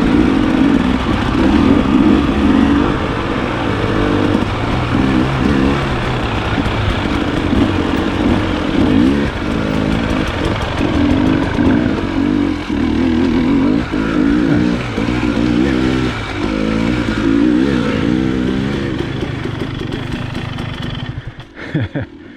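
Dirt bike engine being ridden off-road, its pitch rising and falling again and again with throttle changes over rough trail. Near the end the engine note drops away to a low level.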